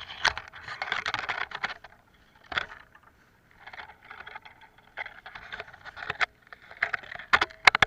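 Leaves and branches rustling and twigs snapping in uneven bursts as someone pushes through dense brush, with sharp cracks loudest near the end.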